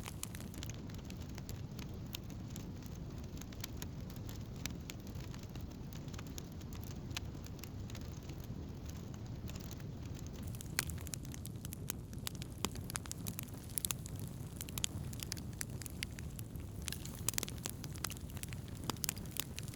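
Wood campfire burning, crackling with frequent irregular sharp pops and snaps over a steady low rumble.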